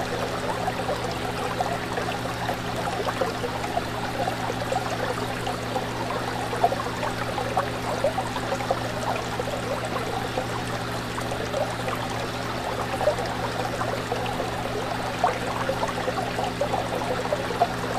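Aquarium water trickling and bubbling steadily, with many small bubble pops and a constant low hum underneath.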